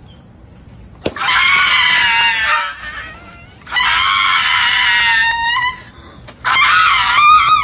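Three long, high-pitched screams with short pauses between them.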